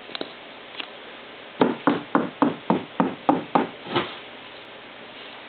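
A quick run of nine knocks, about four a second, each sharp and dying away fast.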